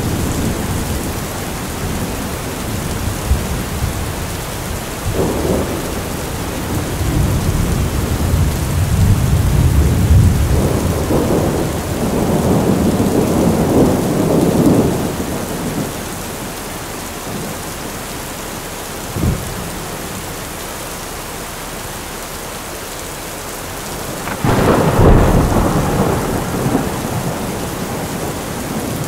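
Thunderstorm sound effect: steady rain with rolling thunder. A long low rumble swells and fades through the first half, a single short crack comes about two-thirds of the way in, and a loud thunderclap breaks near the end and rumbles away.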